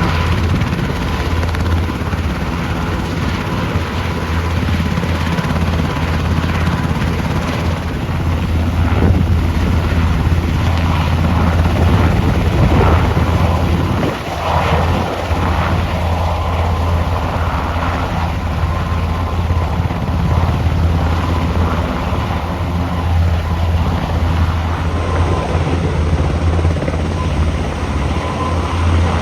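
Search-and-rescue helicopter running steadily: a loud, constant low drone from the rotor and engines.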